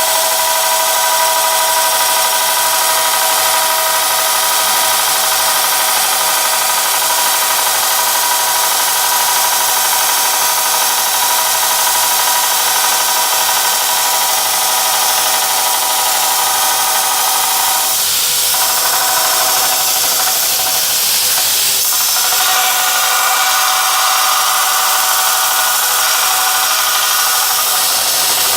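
Homemade belt grinder running, its abrasive belt hissing steadily against metal over a motor whine; the pitch of the whine shifts about two-thirds of the way through.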